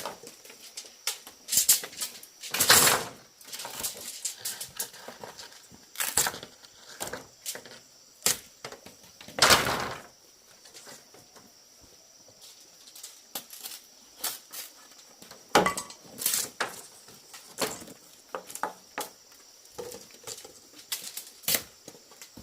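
Bamboo being handled and broken by hand: irregular knocks, clicks and cracks, with two longer, louder noises about three and ten seconds in.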